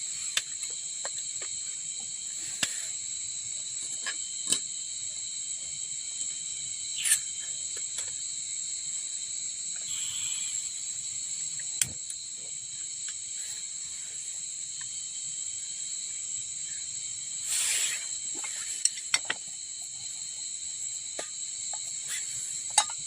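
Steady high-pitched chorus of insects such as crickets, several held tones together, with scattered sharp clicks and taps over it.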